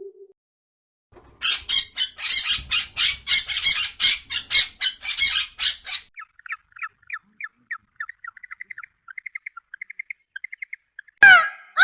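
Bird calls: after a short pause, a bird gives a run of harsh, rapid squawks, about four a second, then a series of thin, quick high chirps that speed up into short trills. A loud wailing call with a falling pitch begins near the end.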